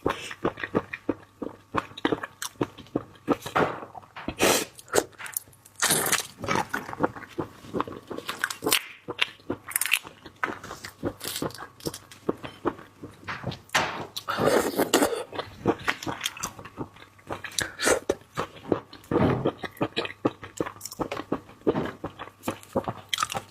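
A person eating close to the microphone: irregular chewing, biting and crunching with wet mouth clicks.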